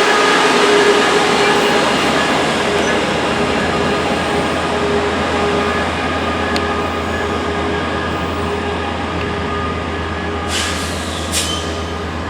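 NCTD Coaster passenger train rolling past, a steady rumble with faint drawn-out squealing tones that slowly fades. Two short high hisses come near the end.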